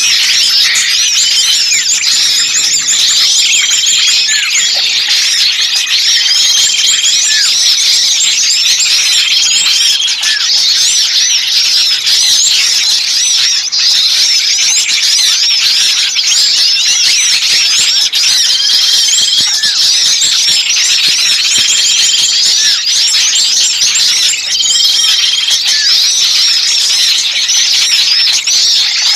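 A dense, unbroken chorus of many small birds chattering and chirping at high pitch, with a short level whistled note that comes back every few seconds. It is a bird-lure recording of agitated small birds, played to draw wild birds in.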